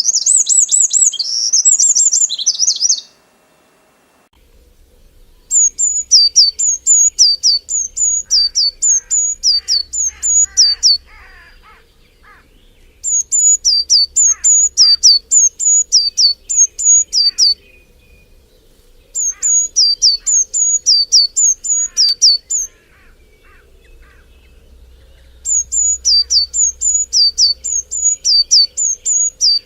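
Birds calling: a dense run of high chirps cuts off about three seconds in. A songbird then sings in four bouts a few seconds long, each a fast series of high, downward-sliding notes at about three a second, with fainter lower calls in between.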